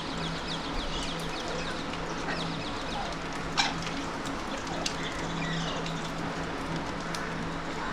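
Birds calling: a fast run of high chirps at first, then one loud, sharp call about three and a half seconds in, with a few shorter calls after it. A steady low hum runs underneath.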